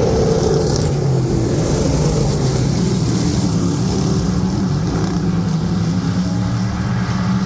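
Dirt-track race car engines running on the track, a loud, steady engine drone that wavers slightly in pitch.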